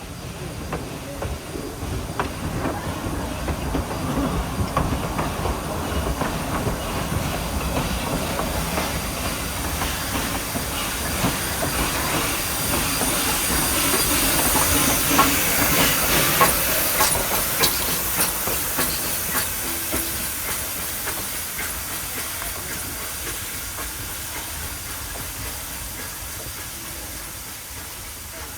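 A narrow-gauge steam train passing, with steam hissing and wheels clicking over the rail joints. It grows louder to a peak a little past the middle, then fades away.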